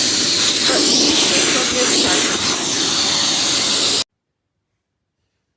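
Russell Hobbs Compact XS 700 W cylinder vacuum cleaner running on carpet with a steady, loud hiss-like whoosh of suction. It cuts off abruptly about four seconds in.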